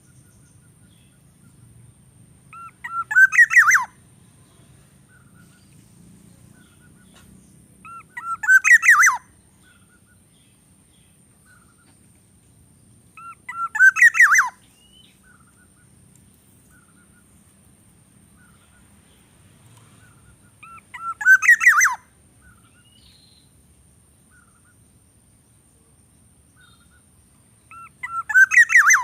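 A bird calling: five loud calls about every six seconds, each a quick run of notes that grows louder over about a second, with faint short chirps in between.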